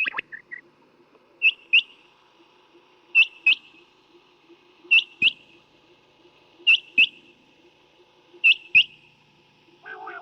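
Quail calling, used as a hunting lure: short, sharp high notes in pairs, a pair about every second and a half, five pairs in a row.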